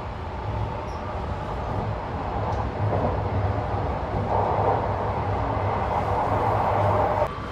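Running noise of the Sunrise Seto sleeper train (285 series electric multiple unit) heard from inside the car, a steady rumble of wheels on rail. It grows louder about four seconds in and drops suddenly near the end.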